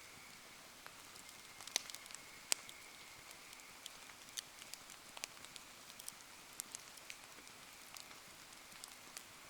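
Wood bonfire crackling in the rain: irregular sharp pops and ticks, the loudest about two seconds in, over a steady hiss of rain.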